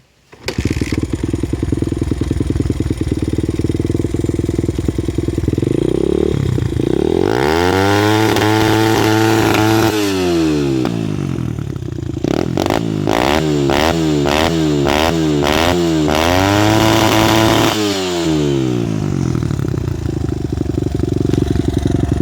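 2002 Honda XR100R single-cylinder four-stroke dirt bike engine fitted with an XR's Only aftermarket exhaust with a spark arrestor. It starts about half a second in and idles. It is revved up and held high and steady for a few seconds, then blipped quickly four or five times, held high again and let drop back to idle near the end. The high steady holds are the engine on its rev limiter.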